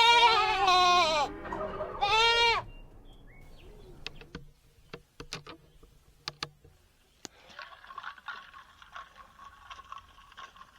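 Goat bleating loudly twice in quick succession, each call wavering in pitch. A few sharp clicks follow, then a faint steady hum.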